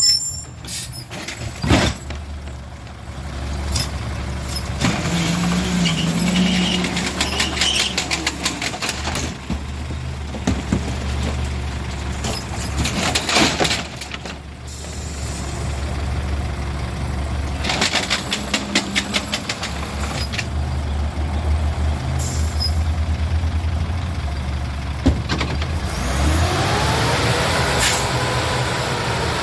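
Garbage truck's diesel engine running, with air-brake hisses and several bursts of rapid rattling and clanking. Near the end a whine rises in pitch and then holds steady.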